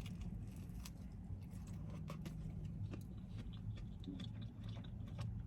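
A person chewing food with the mouth close to the microphone: soft, irregular wet clicks and smacks over a low steady hum.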